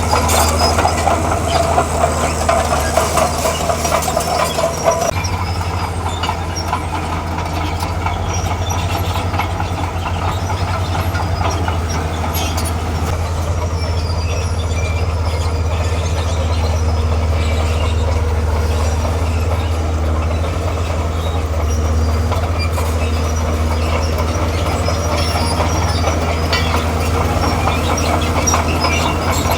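Diesel engine of a tracked earthmoving machine running steadily, with its steel crawler tracks clanking and squeaking. A louder, higher-pitched clatter lasts the first five seconds.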